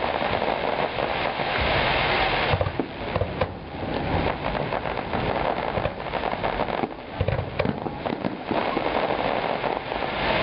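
Fireworks display: aerial shells bursting with a few sharp bangs over a dense, continuous crackling of crackle-effect stars.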